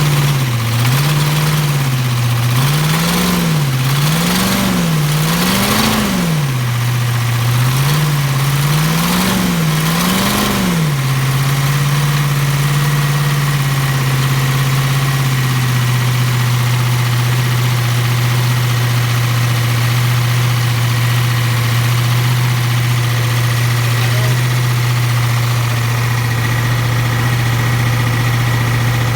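1993 Ford F-350's 7.3 IDI V8 diesel running just after its first start following a top-end rebuild. It is revved up and down several times in quick blips, then settles into a steady idle about eleven seconds in.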